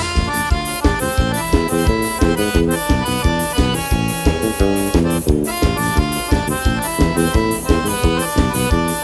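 Forró band's instrumental break: an accordion playing quick runs of notes over a steady percussion beat.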